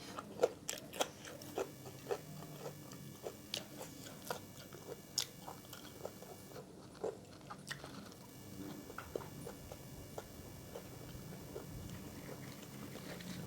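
Close-miked eating: a person biting and crunching food, with frequent crisp crunches that thin out to softer chewing after about eight seconds.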